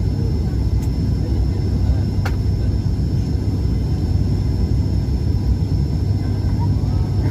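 Steady airliner cabin noise in flight: a constant low rumble of engines and airflow with a thin, steady high whine above it.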